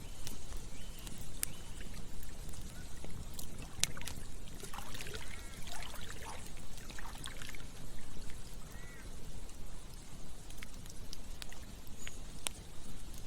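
Campfire crackling with scattered sharp pops over running water, with a run of gurgles about five seconds in and again a little later.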